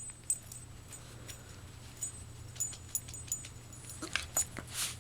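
Shiba Inu yawning near the end: a short rising squeak and then a breathy exhale, after several light clicks.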